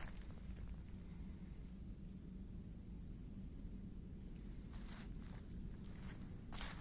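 Footsteps of a person walking outdoors, pausing in the middle and resuming near the end, with a few short, high small-bird chirps in the pause, one a thin whistle about three seconds in.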